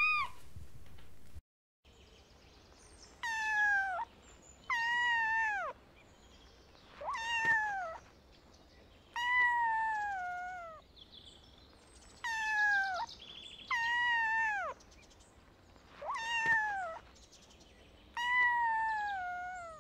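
Domestic cat meowing over and over: about eight drawn-out meows a second or two apart, each sliding down in pitch. It follows a short rising meow and a brief cut at the start.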